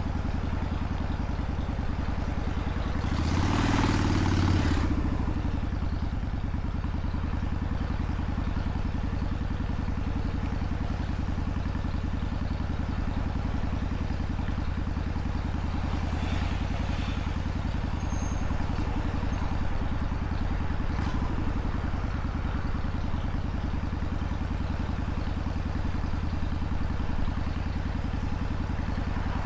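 Motorcycle engine running steadily while riding, with a brief louder surge of engine and rushing noise about three to five seconds in.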